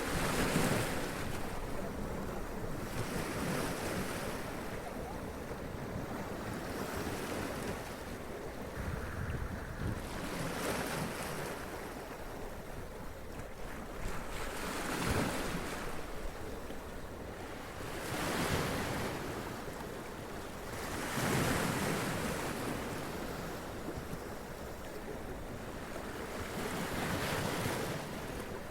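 Sea waves breaking and splashing against rocks, the water washing up in louder surges every few seconds over a steady wash of surf.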